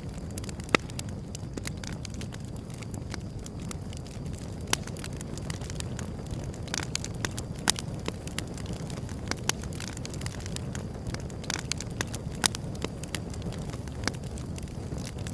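Wood fire burning with a steady low rumble and irregular sharp crackles and pops, a few of them much louder, about a second in, near the middle and near the end.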